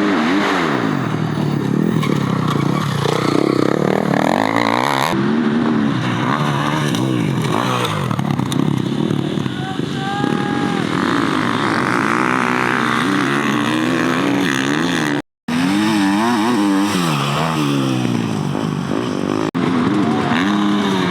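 Dirt bike engines revving up and down through a series of race clips, with the pitch rising and falling repeatedly and a sudden cut a little past halfway.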